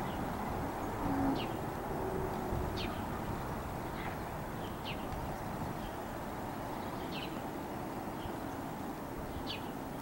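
Short, high chirps from a small bird, repeating every second or two over a steady low background rumble.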